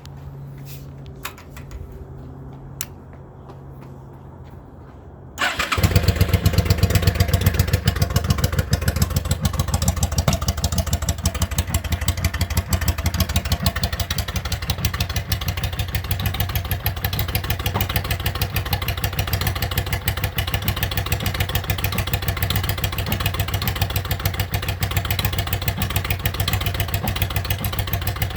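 A 2000 Yamaha V-Star 650's V-twin on straight pipes, cold-started. After about five seconds of a low hum and a few clicks it fires suddenly and runs at a loud, rapid, uneven idle, loudest just after it catches and then settling to a steady level.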